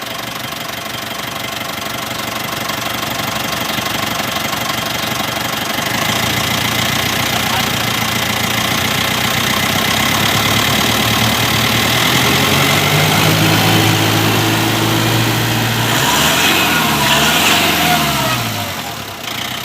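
Mitsubishi engine running, its sound growing fuller about six seconds in and holding steady, then sweeping up and down in pitch as the revs change near the end.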